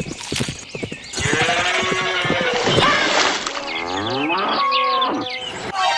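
Cattle mooing: several long, drawn-out moos that overlap, starting about a second in after a few quick clicks.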